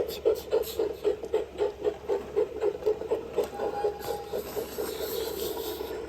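Small electric motor of a battery-powered toy train running, with a rapid regular pulsing of about five or six beats a second that settles into a steady whir near the end.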